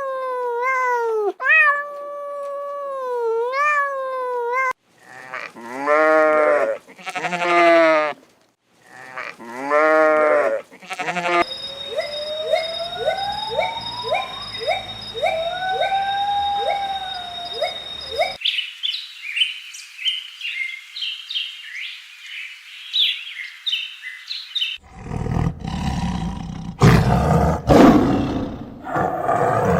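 A string of separate animal recordings. A cat meows repeatedly for the first few seconds, other animal calls and high bird-like chirps follow, and a big cat roars loudly near the end.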